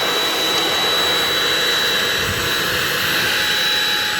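Handheld blower running steadily at full power with a high whine, blowing hard-frozen snow and ice off a car.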